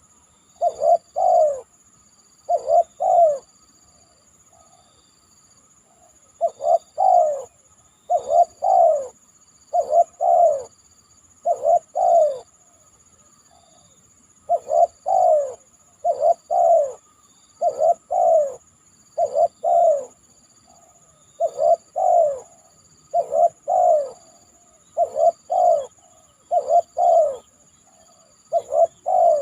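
Spotted dove cooing: short phrases of two or three falling coos, repeated every one to two seconds, with a couple of brief pauses.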